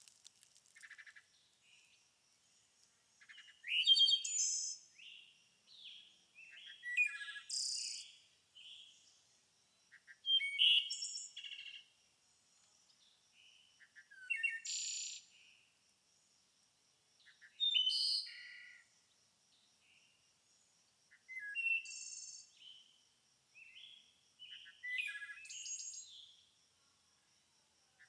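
Songbirds singing short chirping phrases, one burst about every three to four seconds. A faint steady high-pitched tone runs underneath.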